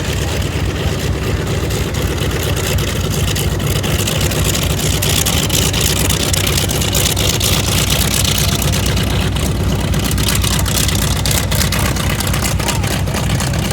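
Douglas A-1 Skyraider's 18-cylinder Wright R-3350 radial engine running at taxi power: a steady, loud low rumble, with its higher hiss swelling midway and easing off again.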